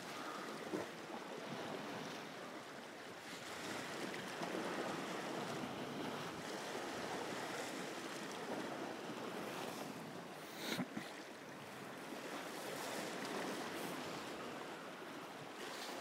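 Sea waves washing against a rocky shore, a steady rush that slowly swells and eases, with one short knock about eleven seconds in.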